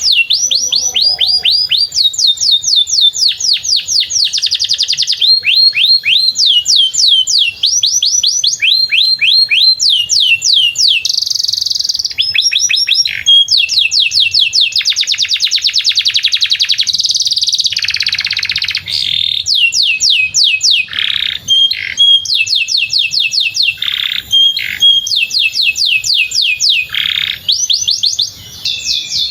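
Domestic canary singing a long, continuous song of rolling trills: fast runs of repeated down-sweeping notes, switching to a new phrase every second or two, with denser buzzy passages along the way.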